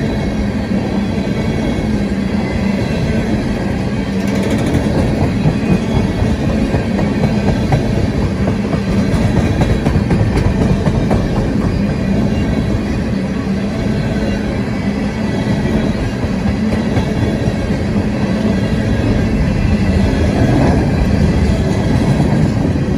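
Tank cars of a CSX freight train rolling past at speed: a steady rumble and clatter of steel wheels on the rails, with no break in it.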